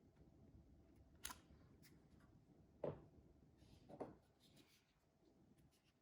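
Faint handling noises: a sharp click about a second in, then two soft knocks about three and four seconds in.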